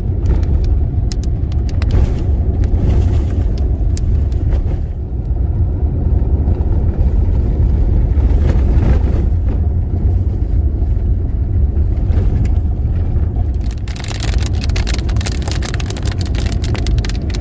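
Steady low rumble of a car driving, heard from inside. About 14 seconds in, a louder hiss with many sharp taps comes in, heavy rain hitting the car.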